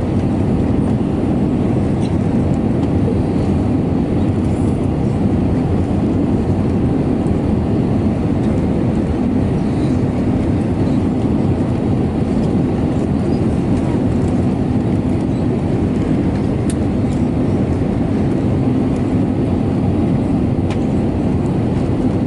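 Steady cabin drone inside an Airbus A320neo (A320-251N): the noise of its CFM LEAP-1A engines and airflow, even throughout, with a faint steady hum under it.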